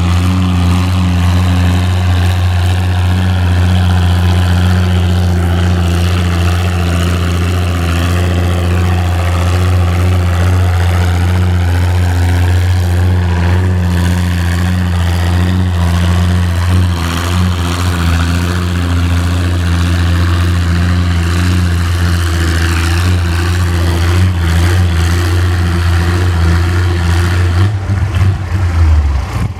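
Antique farm tractor engine running loud and hard at a steady pitch, as when pulling the sled down the track. The sound breaks up briefly near the end.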